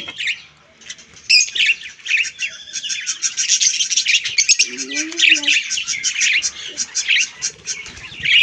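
Parrots chirping continuously, many short high calls overlapping quickly, with a brief lower wavering call about five seconds in.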